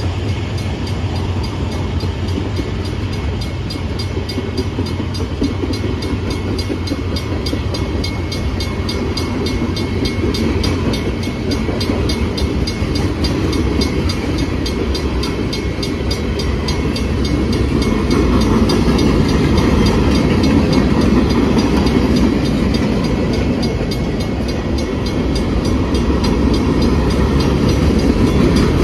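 Freight train cars (open gondolas, then boxcars) rolling past, a steady rumble of steel wheels on rail, getting somewhat louder about two-thirds of the way through.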